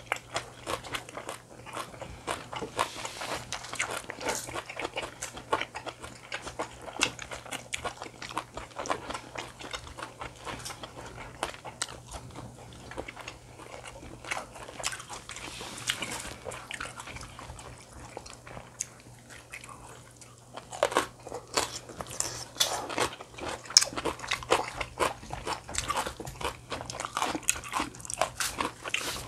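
Close-up eating sounds: irregular crunching bites and chewing of food, with a steady low hum underneath.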